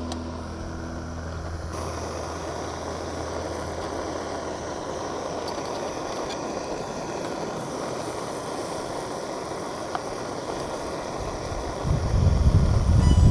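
Pancake patties frying in oil in a pan on a camp stove: a steady sizzle with the burner's hiss. A loud low rumble comes in near the end.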